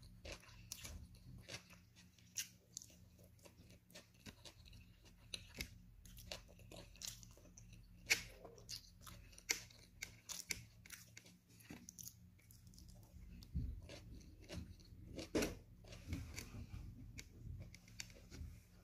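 Close-up mouth sounds of a person chewing food: irregular wet clicks and smacks, a few of them louder.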